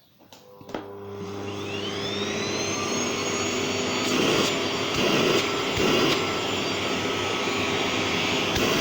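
Gerer8 Power MAX 2000W vacuum cleaner switched on with a click at its low setting, its motor spinning up with a rising whine that levels off into a steady run. From about four seconds in, the sound surges briefly several times as a hand covers the hose to test the suction.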